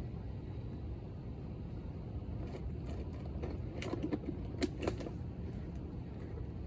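Steady low background rumble with a few light clicks and taps about halfway through.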